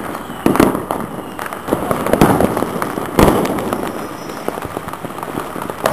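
Many fireworks and firecrackers going off at once, a dense crackle of small bangs. Louder booms come about half a second, two seconds and three seconds in, the one near three seconds the deepest.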